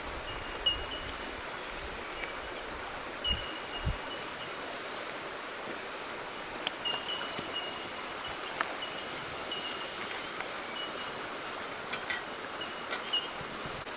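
Steady rush of flowing water, with short high-pitched chirps repeating throughout and a few scattered clicks. Two low thumps come about three and four seconds in.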